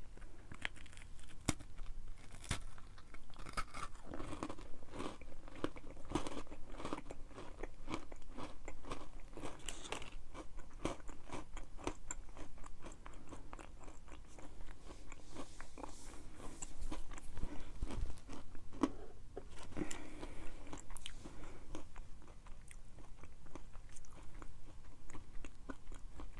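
Biting and chewing a Nature Valley almond butter granola cup topped with chopped almonds: a long run of small, sharp crunches.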